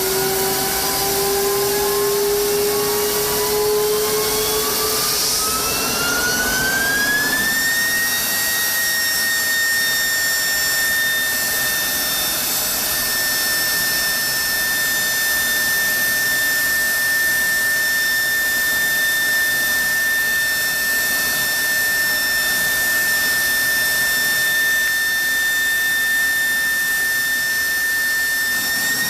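F-16 jet engine on a ground test run: a loud turbine whine over a steady rush, climbing in pitch over the first eight seconds or so as the engine spools up, then holding at a steady high whine.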